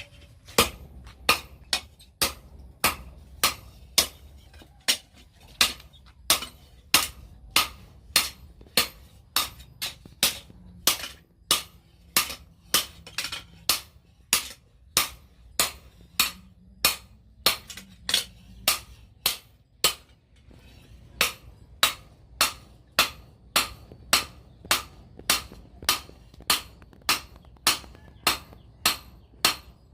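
Hand hammer forging a steel knife blade on an anvil: sharp ringing blows at about two a second, with a short pause about twenty seconds in.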